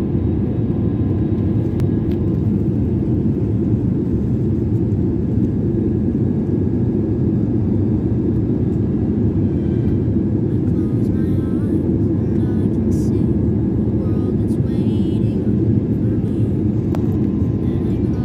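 Steady low drone of a passenger airliner's engines and airflow heard from inside the cabin, unchanging throughout, with faint voices in the background about halfway through.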